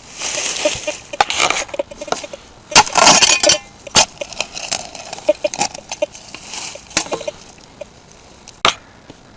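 A digging tool scraping through soil and striking rocks in a rocky hole: rough scrapes with several sharp clinks of metal on stone.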